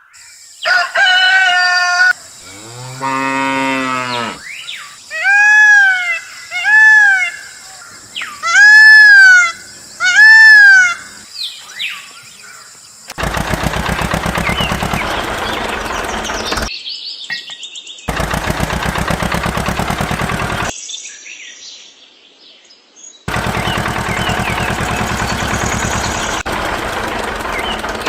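A series of farm-animal calls: a low, drawn-out call like a cow's moo, then several arched, higher calls one after another. After that, a small engine runs with a steady rapid beat in several clips that start and stop abruptly at edits.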